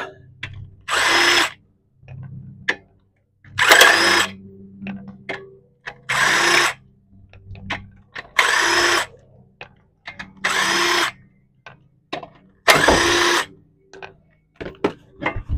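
Impact wrench running lug nuts on an 8-lug truck wheel: six short bursts, about two seconds apart, one per lug nut.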